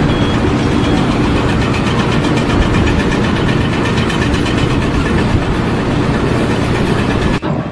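A loud engine running steadily, which cuts off suddenly near the end.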